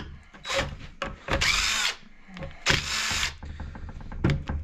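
Power drill-driver with a socket spinning out the gearbox housing bolts, in about three short bursts of whirring with small metallic clicks between them.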